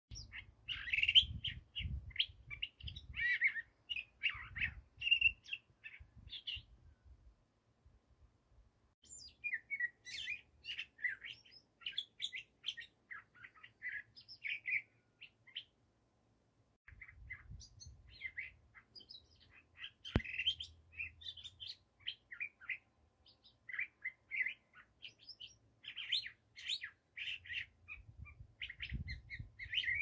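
A single bird giving quick runs of sharp chirps and chattering notes, broken by a few short pauses.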